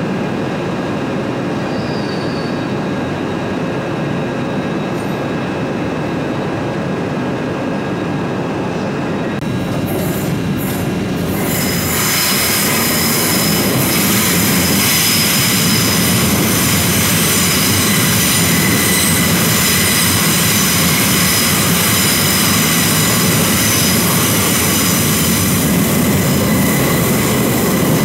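A train rolling slowly through the station. About eleven seconds in, its wheels begin a loud, high, sustained squeal over the running rumble.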